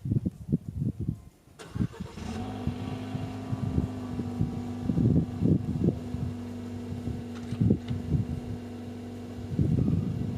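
Mitsubishi Eclipse Cross's 1.5 ClearTec turbocharged four-cylinder petrol engine cranking and catching on a cold start at -8°C about one and a half seconds in, then settling into a steady, fast cold idle. Irregular low thumps run through it.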